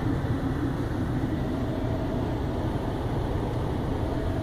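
Steady low rumble and hiss heard from inside a vehicle in an automatic car wash, with no distinct knocks or changes.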